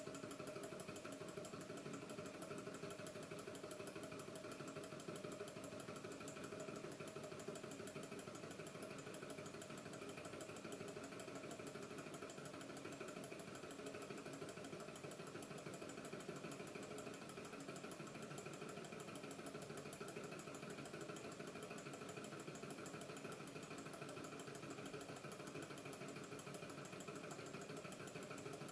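Small gamma-type low-temperature-differential Stirling engine, kit-built, running steadily on the heat of a cup of hot water. Its moving linkage makes a light, even mechanical clatter.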